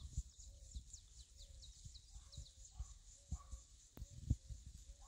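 Faint outdoor bird calls: a low note repeated about twice a second, with a few quick, high, falling chirps in the first second. A steady high insect buzz and low wind rumble run beneath.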